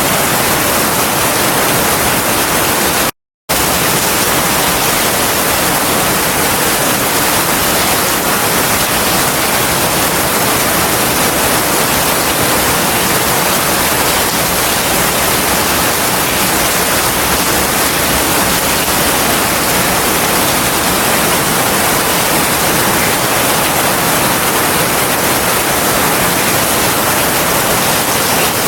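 Heavy rain falling in a steady, dense hiss. It drops out to complete silence for a split second about three seconds in.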